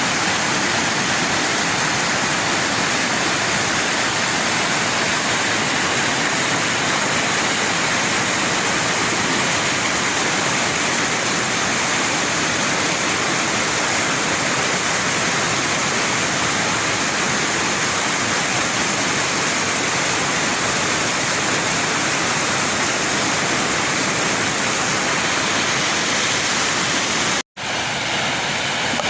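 Flash-flood water rushing in a steady, unbroken rush of noise, cut off once near the end by a sudden split-second gap.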